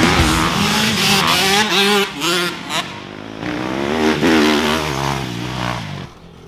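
Dirt bike engine revving up and dropping back several times as it rides and shifts, then fading away near the end.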